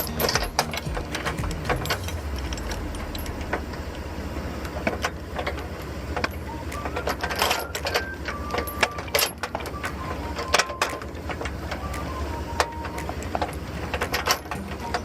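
Vehicle engine idling with a steady low rumble, under scattered clicks and clanks. From about halfway, a series of held notes changes pitch step by step.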